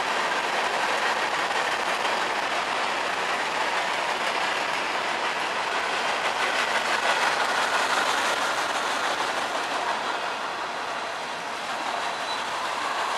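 Freight train cars rolling past close by: a steady, loud noise of steel wheels on the rails, dipping briefly near the end.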